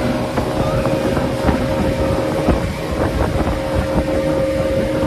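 Motorboat engine running steadily with a constant whine, under rushing wind and water noise.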